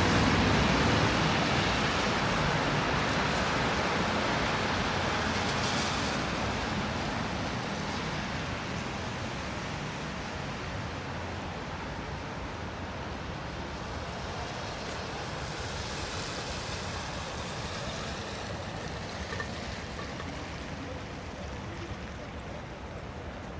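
Steady road traffic noise, an even rush of tyres and engines. It is loudest at first and fades over the first several seconds as a vehicle passes and moves away.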